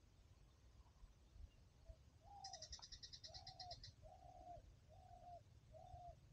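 Faint birdsong: a bird gives a run of five short, low coos just under a second apart, starting about two and a half seconds in. A rapid, high twittering call sounds over the first two coos.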